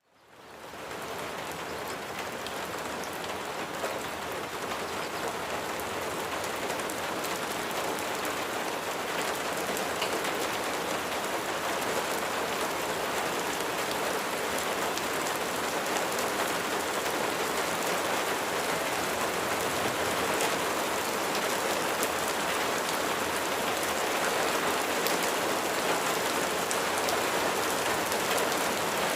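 Steady rain falling, fading in from silence over the first second.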